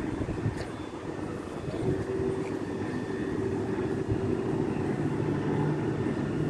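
Electric passenger train approaching the station: a steady hum that slowly builds, with a low tone coming in partway through.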